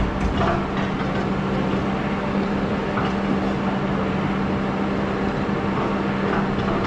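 Excavator's diesel engine running steadily, a constant hum with a few faint clicks and knocks.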